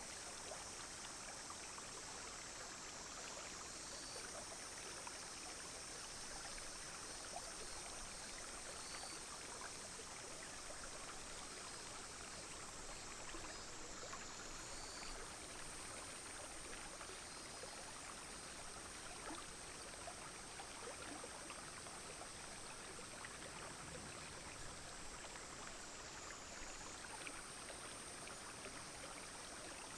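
Clear shallow stream flowing steadily, with a continuous high drone of cicadas and other insects over the water, its pitch shifting slightly a few times.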